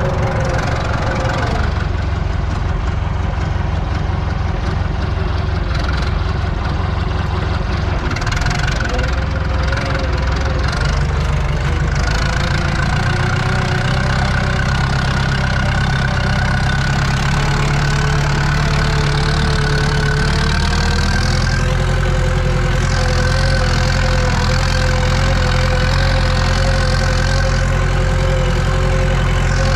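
Tractor diesel engine running steadily, heard from inside the cab while pulling a cultivator; its note shifts slightly about twelve and twenty-one seconds in.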